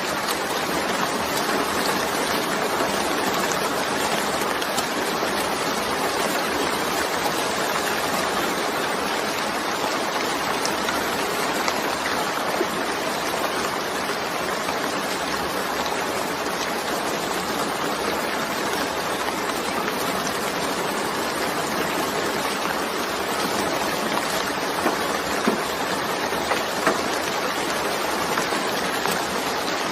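Steady rainfall hissing evenly, with a few louder single drop hits near the end.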